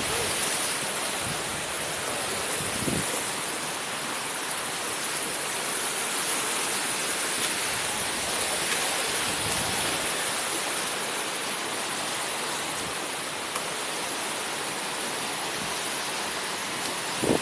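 Steady rushing of a flooded river's fast-flowing water.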